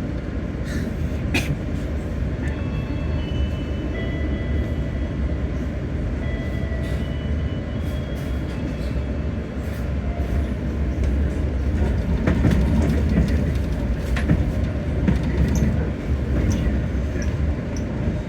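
Passenger train running on the rails: a steady low rumble with scattered sharp clicks and knocks, growing louder about twelve seconds in.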